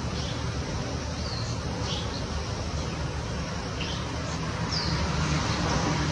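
Short, high bird chirps, a handful scattered through, over a steady outdoor hiss and low rumble.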